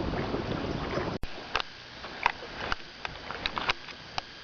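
Open-air ambience on a small fishing boat: a steady wash of wind and water noise that cuts off abruptly about a second in, leaving a quieter background with a handful of short, high ticks scattered through the rest.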